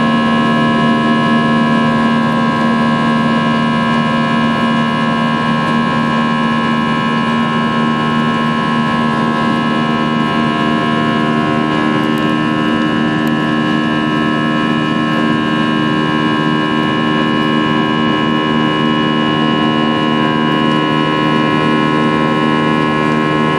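Airbus A320 cabin noise in flight: the jet engines and airflow make a steady drone, with a set of fixed whining tones held over it.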